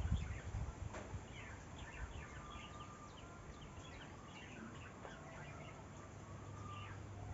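Small birds chirping: many short, quick downward-sliding chirps, with some longer thin notes in between. A low rumble sounds in the first second, over a steady low hum.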